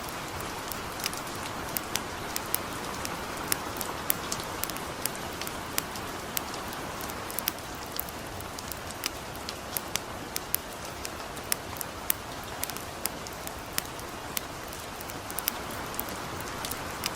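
Light rain falling steadily, an even hiss, mixed with a wood campfire crackling in sharp, irregular pops a few times a second.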